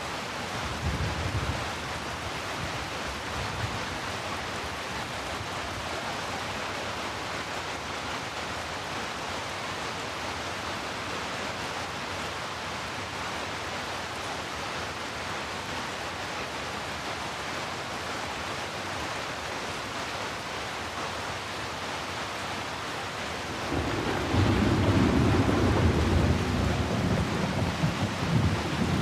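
Steady rain falling, an even hiss. A low rumble of thunder rolls in near the end, louder than the rain, with a fainter rumble about a second in.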